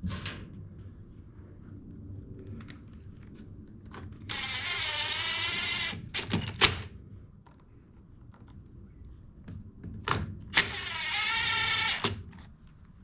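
A cordless power driver with an 8mm socket spins in two bursts of about a second and a half each, its motor whine wavering in pitch. There are small knocks and clicks of tools and parts in between.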